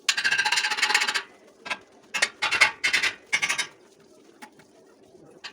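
Stick welding arc crackling in short bursts: a run of about a second at the start, then three shorter bursts a little past the middle, over a faint steady hum.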